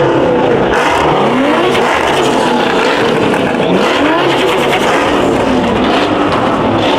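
Muscle-car engine revving hard and loud, its pitch climbing and dropping several times over a constant wall of engine noise.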